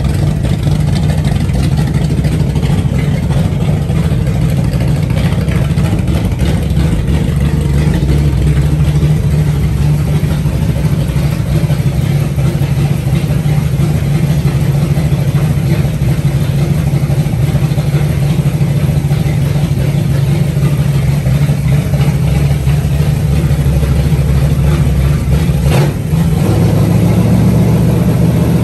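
Freshly built 360 stroker V8 running steadily on its first start-up. Near the end the engine dips briefly and then settles at a slightly higher speed.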